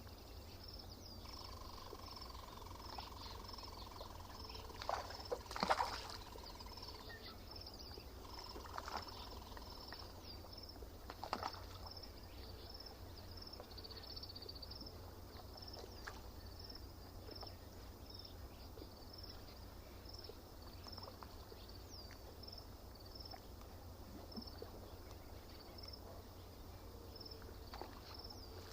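Quiet lakeside nature ambience: a high, thin chirp repeats steadily just under twice a second over a low rumble. A long, steady mid-pitched tone sounds for a few seconds near the start, and there are a few brief louder knocks or splashes, the loudest about five to six seconds in and another about eleven seconds in.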